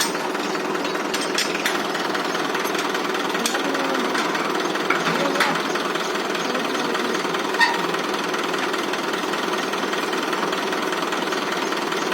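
Tractor diesel engine running steadily with a continuous rattling clatter while it powers a bore well lifting machine. A few sharp metallic clanks stand out over it; the loudest comes about seven and a half seconds in.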